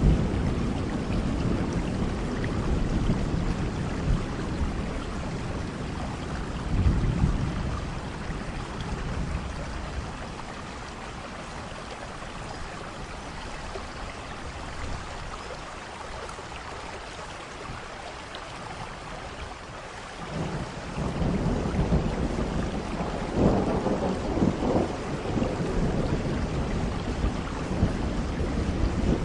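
Steady rain falling with rolling thunder. The low rumble dies away over the first several seconds, and a fresh peal of thunder rolls in about two-thirds of the way through, loudest a few seconds later.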